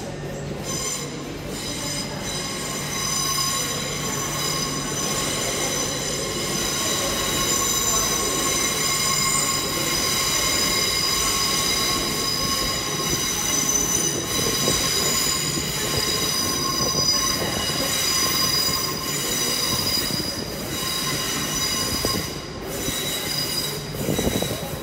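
Passenger train's wheels squealing against the rails as it moves through the station: a steady high-pitched squeal of several tones at once over the rumble of the train, growing louder midway and easing off near the end.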